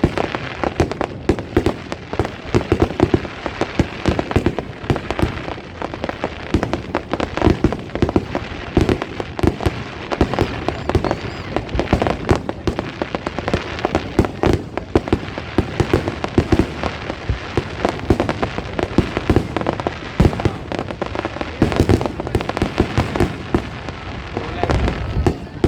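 Fireworks display going off without pause: rapid bangs and crackling bursts overlapping one after another, with a continuous rumble and crackle beneath.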